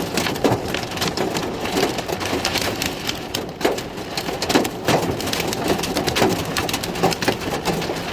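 Dense, steady pattering of falling water drops on a surface, starting abruptly.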